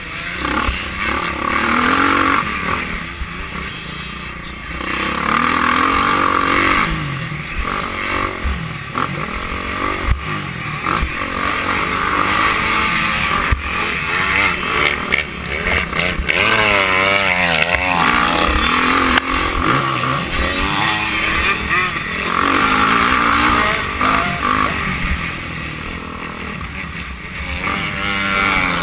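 Motocross dirt bike engines racing on a track, revving up and down as the bikes accelerate and pass.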